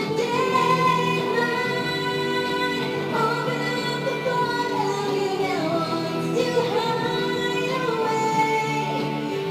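A woman singing a pop song over instrumental backing, with long held notes and slides between pitches.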